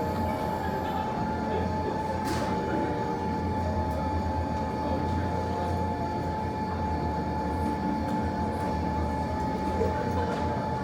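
A steady low hum with a thin, constant higher tone over it, the even background of the room around the fireplace. Once or twice there is a faint crackle or tick.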